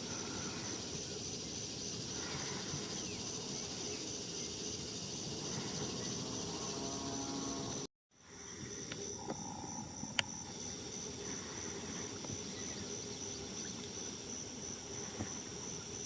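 Outdoor ambience led by a steady, high-pitched, pulsing insect chirring. The sound cuts out abruptly about halfway through and fades back in.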